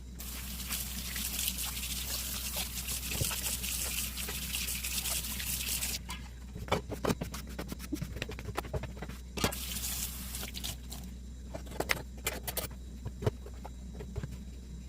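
Kitchen tap running into the sink for about six seconds, then dishes and utensils clinking and knocking as they are washed, with a second short run of water partway through. A low steady hum sits underneath.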